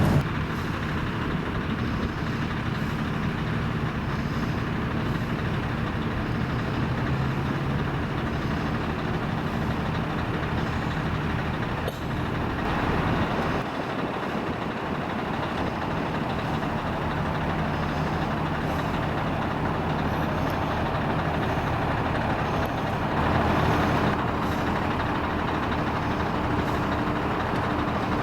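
Heavy lorries' diesel engines running at low speed, their pitch shifting as different trucks move about, over a steady bed of traffic noise. There is a brief sharp click about twelve seconds in.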